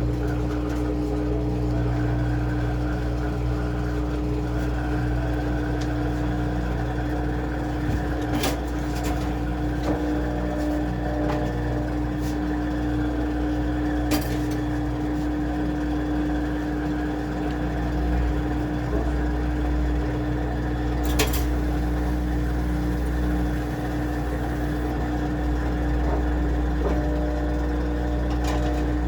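Washing machine running with a steady motor hum and low rumble, a few sharp clicks or knocks along the way.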